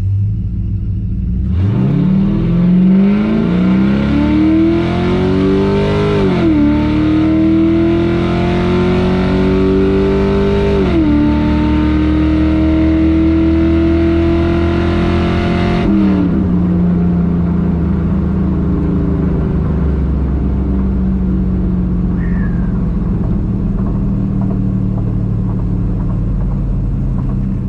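Stock 6.0-litre LQ4 V8 in an LS-swapped Chevy S10 at full throttle down a quarter-mile drag strip, heard from inside the cab. The engine note climbs from the launch and drops sharply at two upshifts of the 4L80 automatic. About 16 seconds in the throttle closes and the note sinks slowly as the truck coasts.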